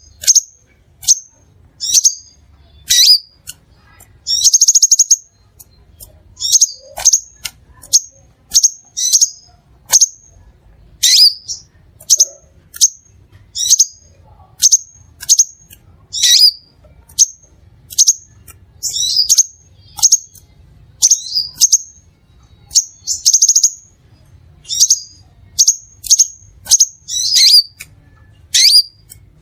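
Crimson sunbird (Aethopyga siparaja) calling: a run of short, sharp, high chirps, roughly one or two a second, broken by a couple of longer buzzy notes.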